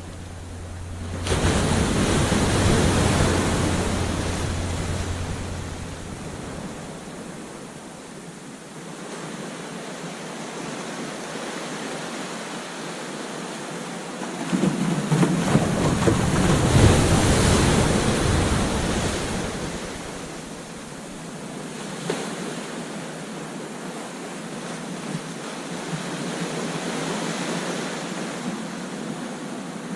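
Ocean waves breaking on a beach: a wave crashes about a second in and washes out over several seconds, and a second, louder wave breaks about halfway through, between steady surf wash. Some wind on the microphone.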